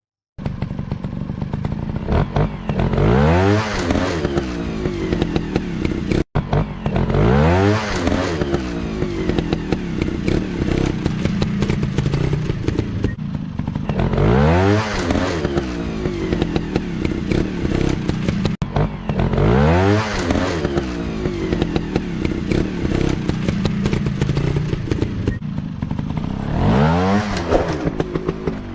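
Dirt-bike engines revving up sharply and falling back about five times, every few seconds, with steady running in between.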